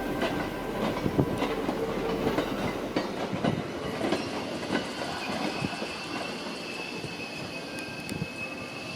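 Train running on rails: irregular clicks and knocks of wheels over the track, slowly growing quieter. From about halfway through, a thin, steady, high wheel squeal joins in.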